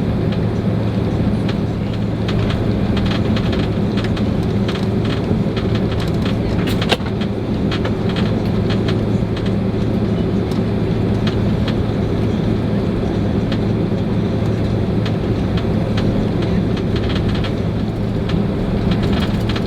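Steady drone of a Boeing 767-300's engines heard inside the passenger cabin on the ground before takeoff, with a constant low hum and light clicks and rattles from the cabin. A sharper click comes about seven seconds in.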